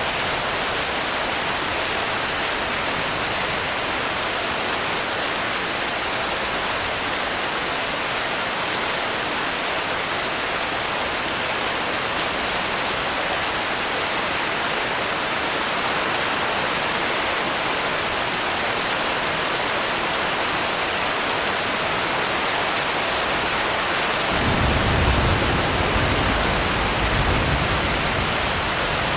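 Steady heavy rain, an even hiss. Near the end a low rumble of distant thunder swells in twice and fades.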